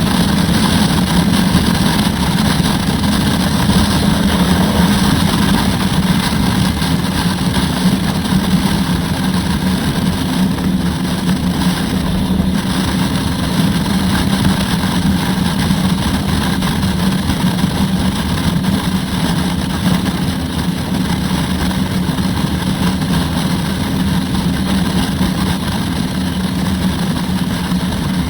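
Turbocharged Harley-Davidson Road Glide's V-twin engine running steadily under way, mixed with a constant rush of wind noise.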